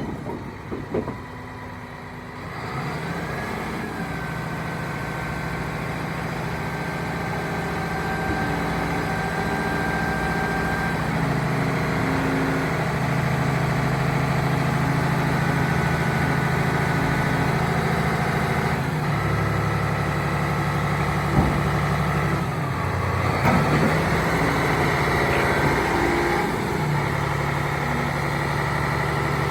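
Komatsu D85PX-18 bulldozer's six-cylinder diesel engine running steadily, its note stepping up and down a few times, with a higher whine that glides in pitch shortly after the start and again about two-thirds of the way through.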